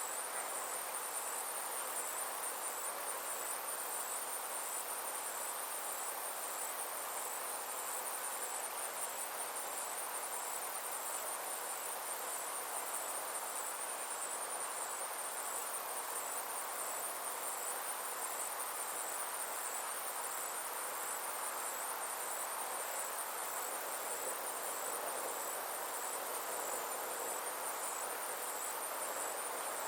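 Insects calling in a continuous high-pitched, rapidly pulsing trill, over a soft, steady background hiss.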